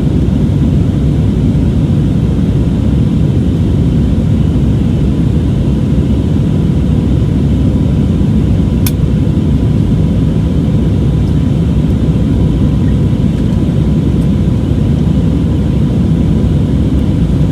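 Steady low rumble inside the cabin of an Airbus A320neo under power: the CFM LEAP-1A engines and rushing airflow, with a faint steady whine and a single sharp click about halfway through.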